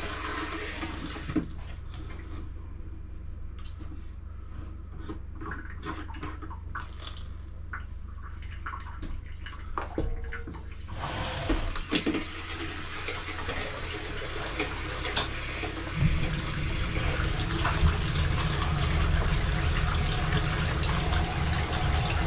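Water rushing from a bathroom tap as the water supply is turned back on after a vanity pipe is reconnected. It starts about halfway in and grows stronger near the end, after a stretch of scattered light clicks and knocks.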